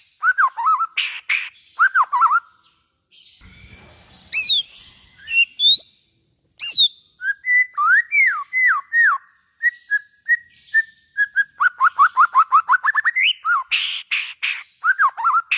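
White-rumped shama (murai batu) singing a varied song: quick runs of repeated down-slurred notes, sharp chattering clicks and high whistled sweeps. About two-thirds of the way through comes a long rapid trill that rises at its end.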